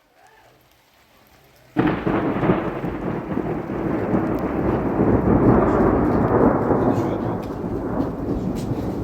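Thunder: a sudden loud clap about two seconds in, then a long rumble that swells and slowly fades, with rain.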